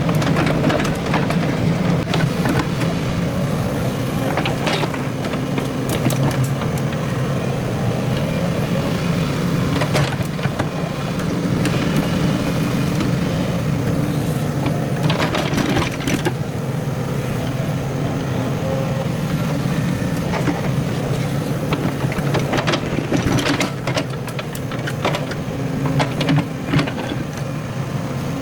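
Excavator's diesel engine running steadily at work, with scattered metallic knocks and clanks every few seconds.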